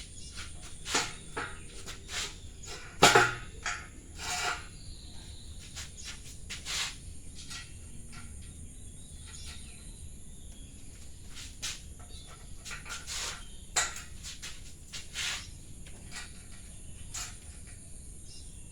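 Irregular clicks and knocks, the loudest about three seconds in, over a steady high-pitched insect drone.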